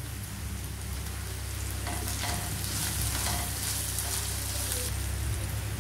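Chopped onions and green chillies sizzling in hot oil in a non-stick kadai while a spatula stirs and scrapes them, turmeric just added. The sizzle grows slightly louder and brighter partway through as the mixture is stirred.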